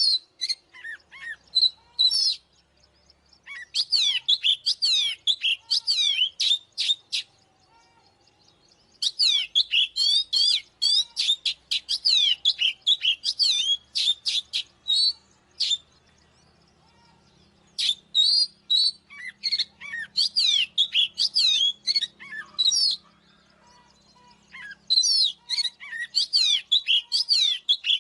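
Oriental magpie-robin singing: phrases of rapid, varied, high whistled notes, broken by short pauses about every few seconds.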